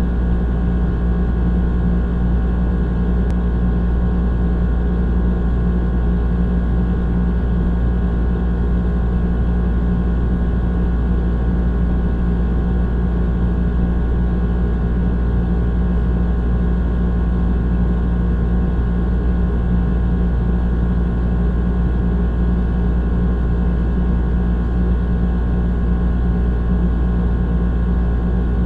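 Old air conditioner running steadily: a constant low hum with several steady tones layered over it.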